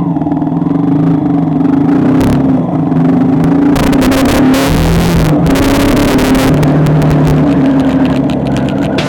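A motor vehicle's engine running under way, its pitch stepping up and down. A loud rushing hiss joins it a little before halfway and lasts about three seconds.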